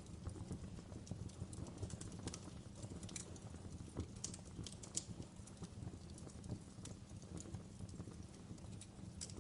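Wood fire burning in a fireplace: irregular sharp crackles and pops over a low steady rumble of the flames, with a few louder pops about four and five seconds in.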